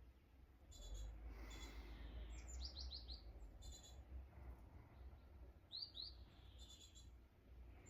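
Small birds calling faintly: runs of quick, high, falling chirps about two and a half seconds in and again near six seconds, with short buzzy trills between them, over a low steady rumble.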